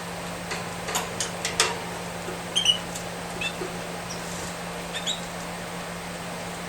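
Short, high squeaky peeps from a canary chick begging as it is fed, with a few sharp clicks just after a second in. A steady low hum sits underneath.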